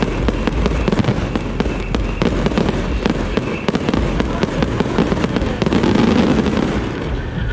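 Aerial fireworks bursting overhead: a dense, rapid string of bangs and crackles.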